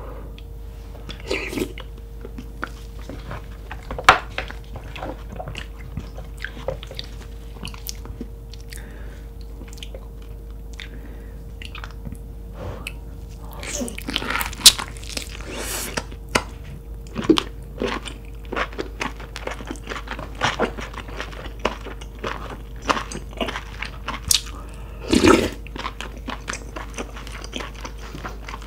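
Close-miked eating of lobster meat and tomalley-butter sauce: wet chewing, biting and mouth clicks, sparse at first and much denser from about halfway through, over a faint steady hum.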